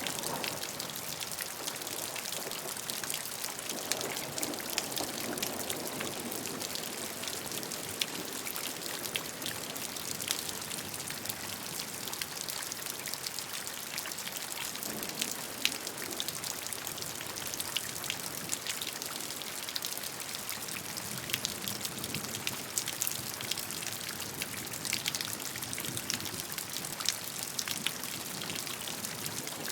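Steady rainfall, with many close drops pattering on a surface and a few louder drips standing out.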